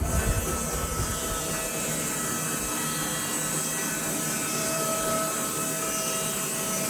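Woodland Mills HM126 bandsaw mill running steadily, a machine hiss with a thin steady whine over it. The deep rumble heard just before drops away right at the start.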